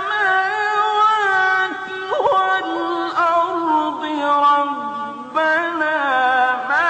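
Wordless male vocal chanting with long held notes that bend and waver in an ornamented, Middle Eastern-style melody.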